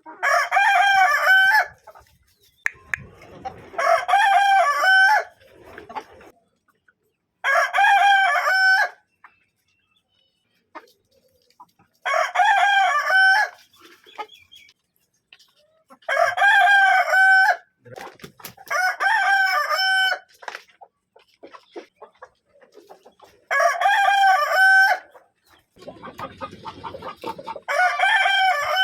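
Kadaknath roosters crowing, one cock-a-doodle-doo after another: about eight crows of a second and a half each, a few seconds apart, with fainter low clucking in some of the gaps.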